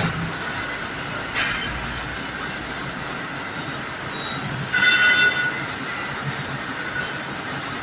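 CNC machine running in a machine shop: a steady mechanical din with a short hiss about a second and a half in, and a brief high-pitched metallic squeal about five seconds in.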